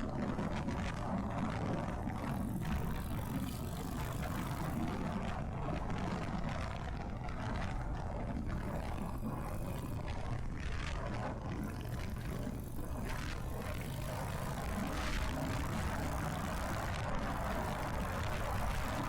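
Harley-Davidson motorcycle's V-twin engine running steadily while riding, with wind rushing over the microphone.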